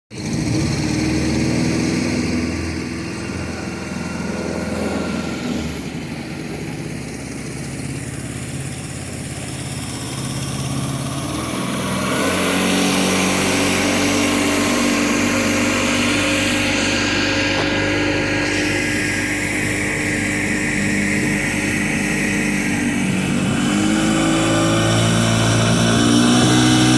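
Motorboat engine running under way as it tows a banana boat. It picks up speed about halfway through, eases off briefly, then revs up again near the end.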